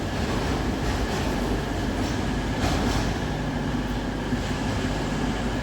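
A train running steadily on the track, a continuous rumble with a constant hum and a single brief clank about two and a half seconds in.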